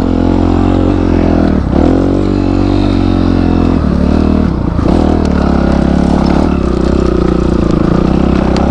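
Motorcycle engine running under load on a rough trail. Its pitch drops and picks up again three times in the first five seconds as the throttle is closed and reopened, then it runs at an even speed.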